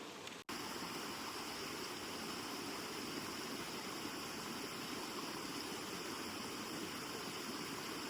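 Steady rushing noise, even and unbroken, with a sudden cut and restart about half a second in.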